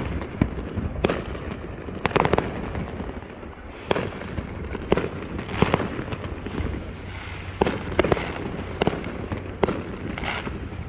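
Fireworks going off all around: about a dozen sharp bangs at irregular intervals, some echoing, over a steady low rumble.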